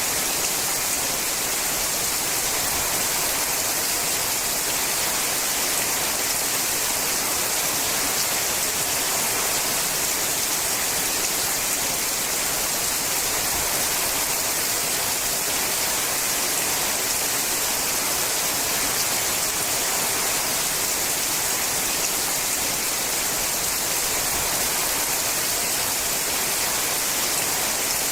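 Steady rain falling on a sheet-metal roof: an even, mostly high-pitched hiss with no single drops standing out.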